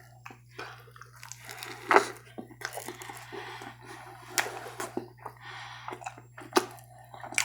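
Close-miked eating sounds: wet chewing and mouth clicks, irregular, with a few sharper smacks, over a steady low electrical hum.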